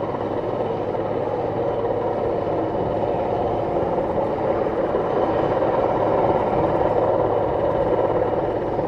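Airbus Helicopters H215 Super Puma twin-turbine helicopter flying, its rotor and engines making a steady sound that swells slightly about six seconds in.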